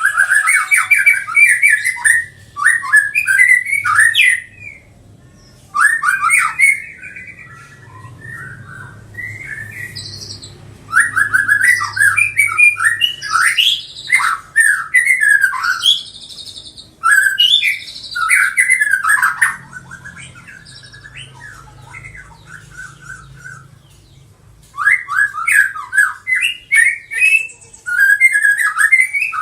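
Young white-rumped shama, about six months old, singing in bursts of quick, varied notes with pauses of a few seconds between phrases.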